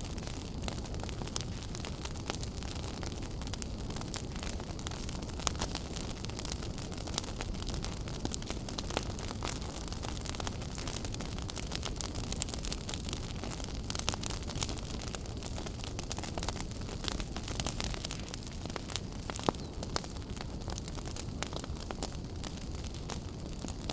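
Wood fire burning in a fireplace: a steady low rumble of flames with constant crackling and scattered sharper pops.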